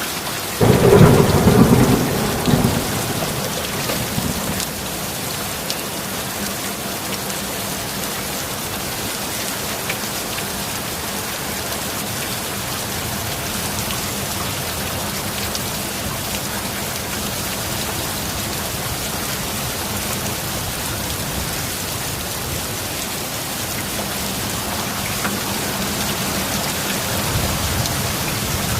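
Steady heavy rain, with a sudden clap of thunder about half a second in that rumbles and fades over the next few seconds, and a faint low rumble of thunder again near the end.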